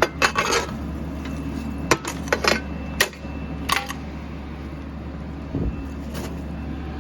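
Split firewood being loaded into a wood stove: a series of wooden knocks and metal clanks in the first four seconds, over a steady low hum.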